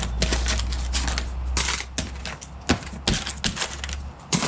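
Coins and small metal junk clinking and sliding against each other as a hand rakes through a pile of metal-detecting finds to separate out the coins, a quick irregular run of sharp clicks over a steady low hum.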